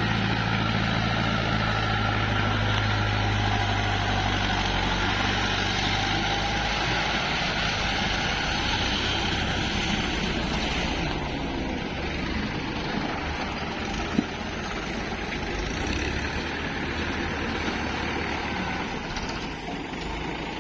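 Heavy diesel engine running steadily, its low hum fading somewhat partway through, with a single sharp knock about fourteen seconds in.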